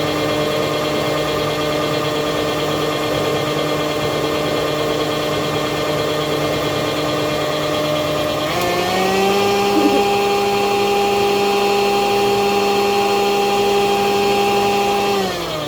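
Electric mixer motor running steadily while it beats a cream cheese and peanut butter pie filling. About halfway through, its whine jumps to a higher pitch as the speed is turned up. Near the end it winds down and stops as it is switched off.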